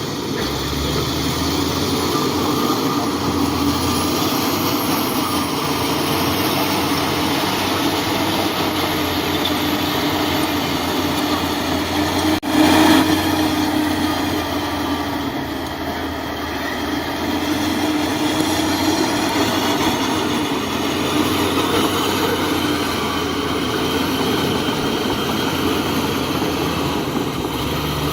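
Heavy earthmoving machinery's diesel engine running steadily under work, with one sharp thump about twelve seconds in.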